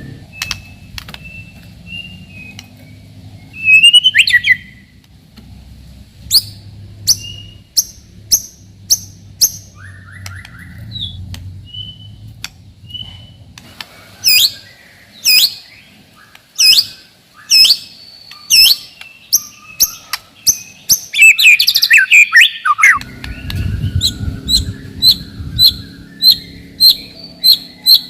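White-rumped shama (murai batu) singing: a string of sharp whistled notes sweeping downward, about one a second, then a fast tangled flourish about three-quarters of the way through, and quicker evenly repeated notes near the end.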